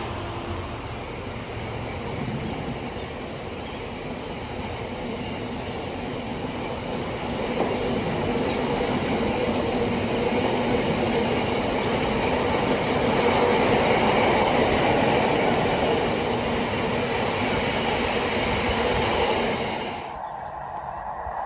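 A train running past on the rails: a steady rumble of wheels and running gear that builds to its loudest about two-thirds of the way through, then drops off abruptly near the end.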